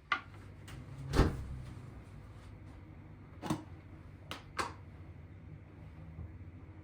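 Scattered knocks and clunks of things being handled, the loudest a deep thump about a second in, followed by a few lighter clicks.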